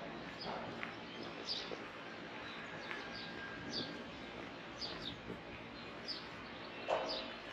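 Small birds chirping: short, high, falling chirps, one or two a second, over a steady outdoor background hiss. A louder short sound comes near the end.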